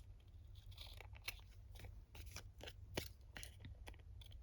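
Scissors cutting paper, a string of faint, short snips, with paper being handled between them.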